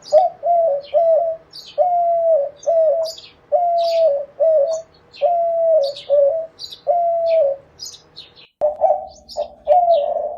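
Doves calling in a quick run of about a dozen short cooing notes, each dipping in pitch at its end, with brief high chirps from small birds between them and a short pause near the end.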